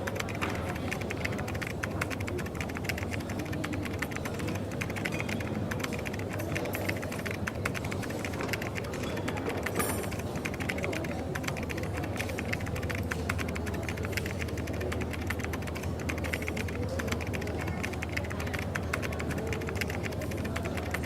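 Coffee shop ambience: a constant patter of small clicks and clatter over a steady low hum.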